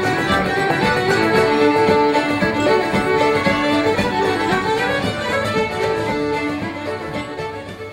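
Celtic music led by a fiddle, fading out near the end.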